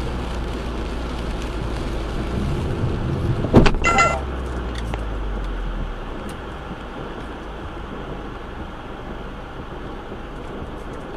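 Steady road and engine noise from a moving car, picked up by its dashcam, with a sharp bang about three and a half seconds in and a brief high-pitched tone just after it. The noise eases off about six seconds in.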